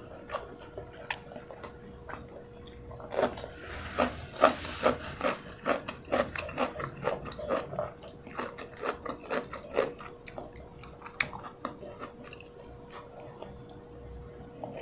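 Close-miked wet chewing and lip smacks of someone eating nasi ayam penyet, rice and fried chicken, by hand. A quick run of small wet clicks in the middle stretch, fewer and quieter near the end.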